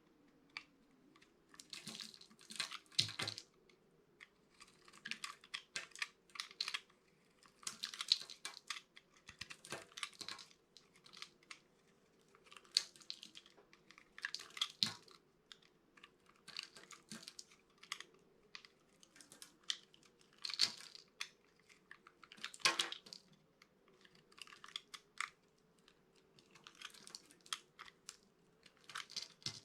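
A knife cutting through a bar of dry soap: crisp, crunchy cuts in short clusters, coming every second or two.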